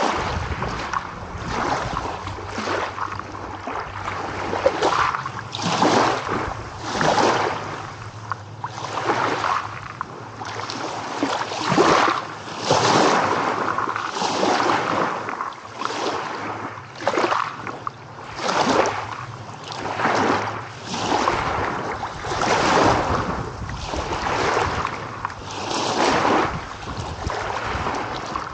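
Small waves lapping and splashing in quick repeated surges, about one a second, each a short rush of water that swells and falls away.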